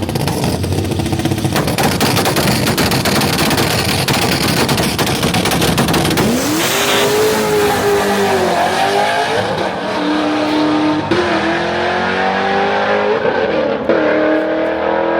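A car at high revs, loud and continuous, with a rasping noise that gives way about six seconds in to a wavering pitched squeal.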